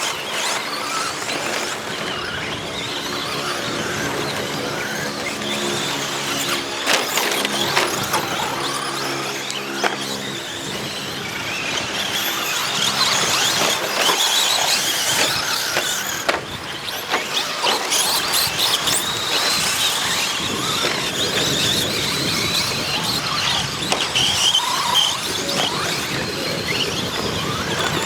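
Radio-controlled 2WD short course trucks racing, their motors giving a high-pitched whine that rises and falls as they speed up and slow down, with several overlapping. Occasional sharp knocks cut through the whine.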